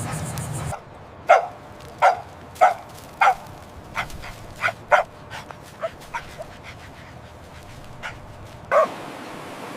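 A puppy yapping: four short, high barks about every 0.6 s, then softer, scattered yips, and one more bark near the end.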